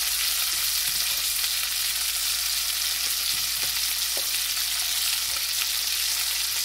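Chicken pieces browning in butter in a hot pan, a steady sizzle.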